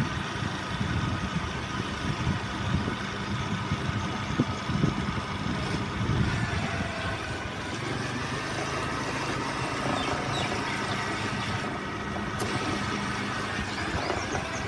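Motor scooter engine running steadily, with uneven low rumble.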